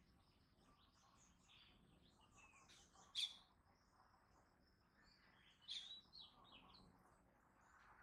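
Faint backyard birdsong, several birds chirping and calling, with one sharper, louder call about three seconds in and a short burst of louder notes near six seconds.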